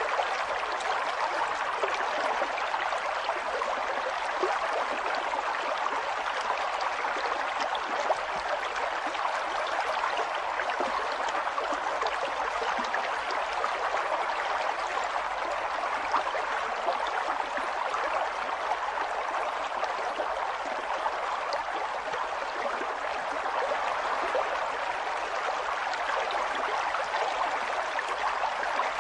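Steady rushing and gurgling of a river's flowing water, an even splashing hiss with many small crackles of water over stones.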